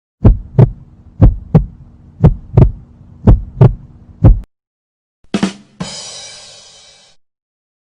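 Heartbeat sound effect: four double thumps about a second apart, then a single thump. Then a short hit and a bright, ringing crash that fades out over about a second.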